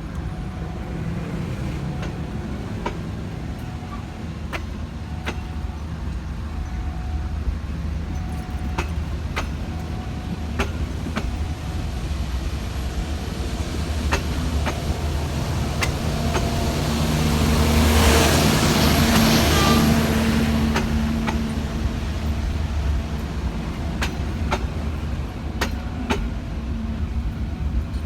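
Steady low engine rumble with scattered clicks, swelling to its loudest about two-thirds of the way through, then easing back.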